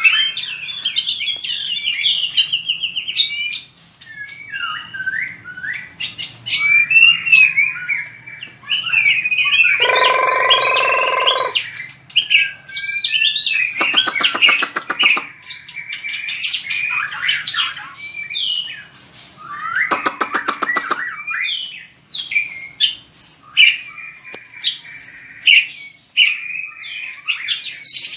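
White-rumped shama singing: a continuous, varied stream of loud whistled and gliding phrases, broken by a lower, harsh buzzy note about ten seconds in and two rapid rattling runs of clicks a few seconds apart.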